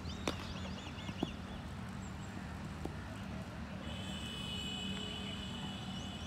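Outdoor ambience with a bird's quick, looping chirped call repeated about a second long near the start and a few sharp knocks, over a constant low hum. About four seconds in, a steady high tone begins and holds to the end.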